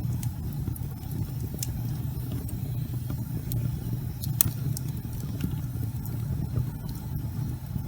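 Wood fire burning in a fireplace: a steady low rumble of flames with sharp crackles and pops scattered irregularly through it, one louder pop about four and a half seconds in.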